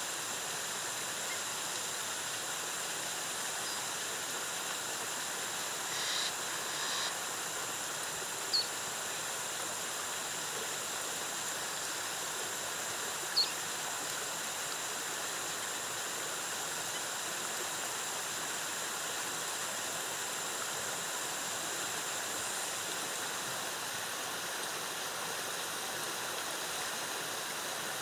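Steady rush of a rainforest waterfall and its cascading water, with a faint constant high hum over it and two short high chirps in the middle.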